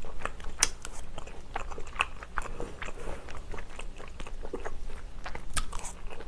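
Close-miked chewing and biting of stir-fried Korean blood sausage (sundae) and pork tripe with glass noodles: many short, irregular wet mouth clicks and smacks.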